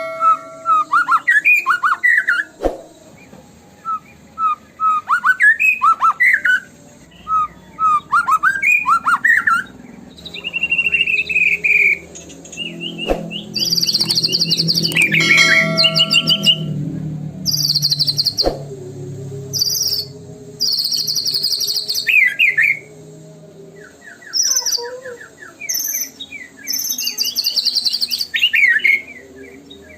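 White-rumped shama (murai batu) singing a varied, fast-changing song: rich slurred whistles and sweeping notes broken by rapid high trills and chattering phrases, with short pauses between bursts.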